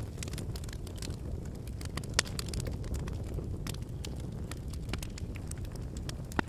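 Wood fire burning with a steady low rumble of flames and scattered crackles and pops from the burning logs, the sharpest pop about two seconds in and another near the end.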